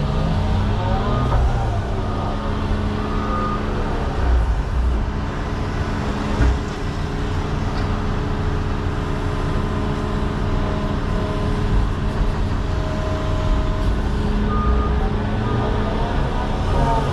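John Deere 210 excavator's diesel engine running steadily under working load, with short whines from the hydraulics that rise and fall as the machine works. A sharp knock comes about six and a half seconds in.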